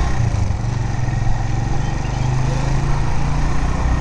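Suzuki GS150 motorcycle's single-cylinder four-stroke engine running steadily under way.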